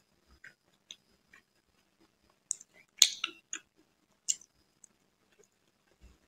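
Close-miked mouth sounds of eating a rasgulla: scattered wet clicks and squishes of biting and chewing the soft, syrupy cheese ball, the sharpest about three seconds in.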